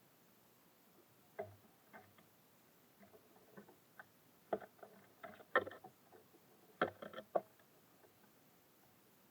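Small birds landing and pecking at seed in a bird feeder: irregular taps and knocks, thickest in two clusters in the second half.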